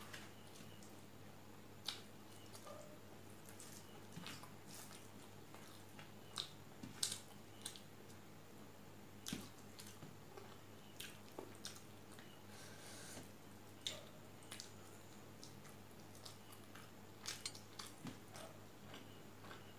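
Close-up eating sounds of a person chewing a mouthful of rice and rohu fish curry: irregular short mouth clicks and smacks, with pauses between them.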